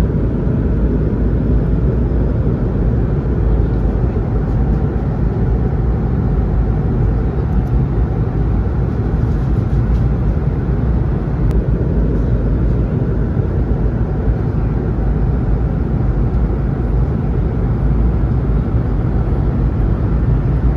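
Steady, unchanging engine and airflow drone inside the passenger cabin of an Airbus A220-300 airliner.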